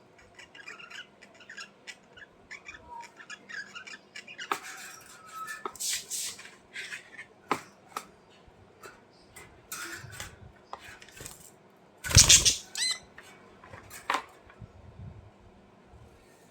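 Budgerigars chirping and chattering in short bursts, mixed with sharp clicks and taps, with one loud squawk about twelve seconds in.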